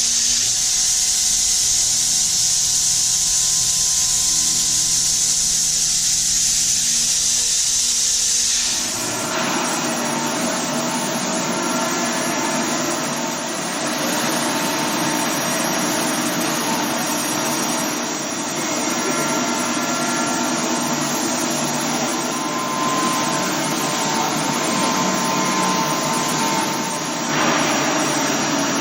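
Okuma GENOS M660-V CNC vertical machining center running: a steady high hiss for about nine seconds, then it changes abruptly into a fuller milling noise with several faint steady whines.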